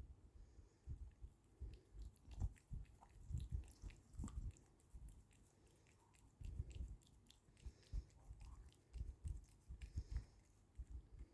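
Pets licking and chewing milk ice cream: quiet, irregular wet smacks and clicks of tongue and jaws.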